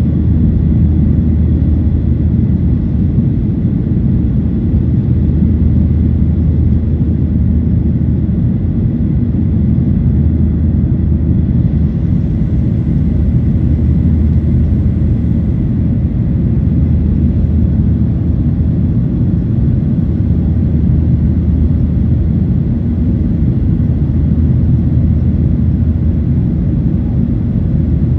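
Boeing 737-800's CFM56-7B jet engines and airflow heard inside the cabin as a steady, loud low rumble with a faint steady whine above it.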